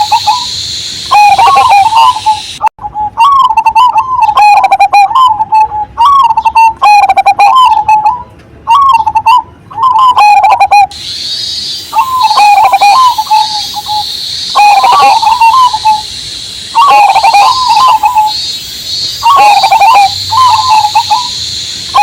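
Zebra dove (perkutut) cooing over and over in short, rolling phrases of several notes each, with brief pauses between them. A steady high cicada drone runs behind it except for a stretch from about 3 to 11 seconds in, where the coos stand alone.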